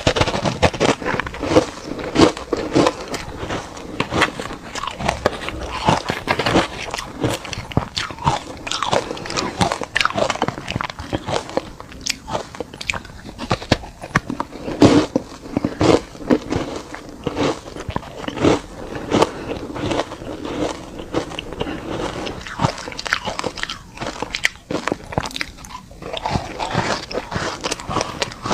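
Ice chunks dusted with matcha powder being bitten and chewed close to the microphone: a continuous run of sharp crunches and crackles, easing off briefly near the end.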